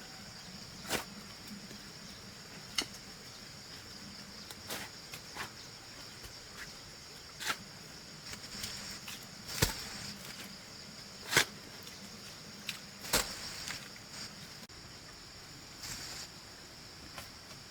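A digging tool striking wet soil in irregular blows about every one to two seconds, as a drainage trench is dug. A steady high insect drone runs underneath.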